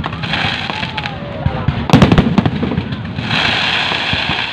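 Aerial fireworks going off, with a quick cluster of sharp bangs and crackles about two seconds in over a constant din of bursts. Crowd voices are heard underneath.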